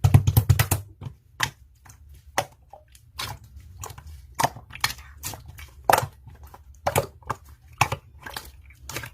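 Slime being squeezed and poked by hand, giving irregular sticky clicks and pops, a quick cluster of them at first and then one or two a second.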